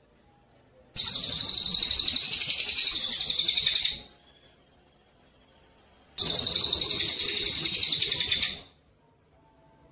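A songbird sings two loud, rapid, high trills made of fast even pulses. The first starts about a second in and lasts about three seconds; the second starts past the middle and lasts about two and a half seconds, with a pause between them.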